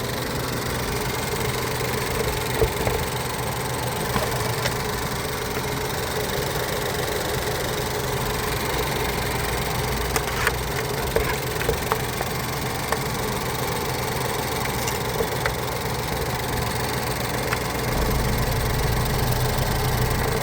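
Ford Mondeo IV 1.6 Ti four-cylinder petrol engine (JTBA) idling steadily, with a few sharp clicks. Near the end it runs a little louder and deeper.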